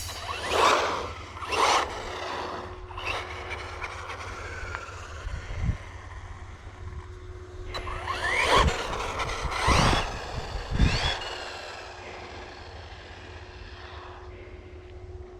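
Electric motor of a 1/10-scale 4WD RC car whining up in pitch as the car accelerates, several times over, with louder surges about 8 to 11 seconds in. A steady low rumble of wind on the microphone runs underneath.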